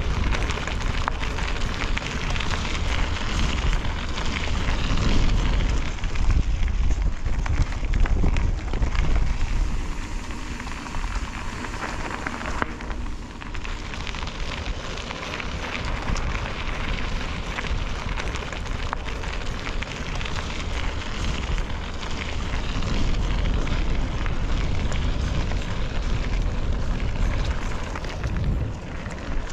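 Bicycle tyres crunching over an unpaved trail with a steady crackle, under the low rumble of wind on the microphone while riding; the noise eases a little about ten seconds in.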